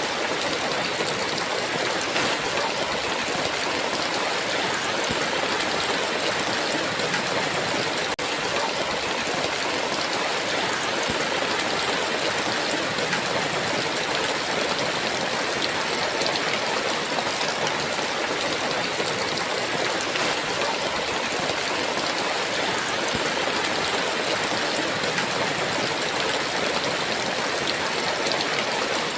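Heavy rain falling in a steady downpour, an even dense hiss with no breaks.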